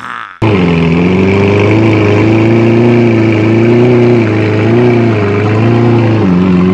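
A vehicle engine starts abruptly about half a second in and runs steadily, its pitch wavering gently up and down.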